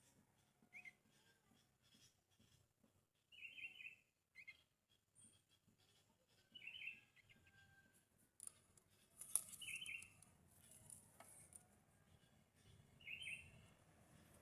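Sooty-headed bulbul chirping faintly, a short cluster of high notes about every three seconds, five times, with faint rustling clicks between.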